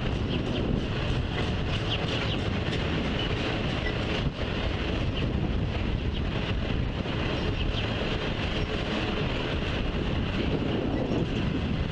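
Freight train of autorack cars rolling past: a steady rumble and rattle of steel wheels on the rails, without change in level.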